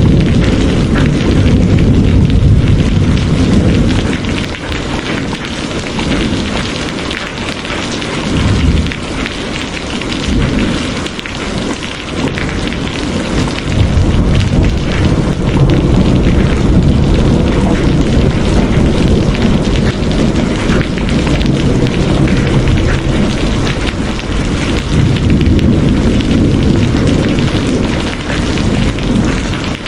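Heavy rain falling steadily, with a deep rumble of thunder that swells and fades several times.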